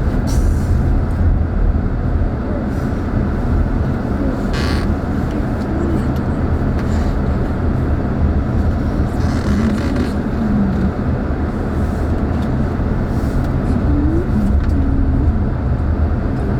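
Car driving slowly on a winding road, heard from inside the cabin: a steady low rumble of engine and tyres.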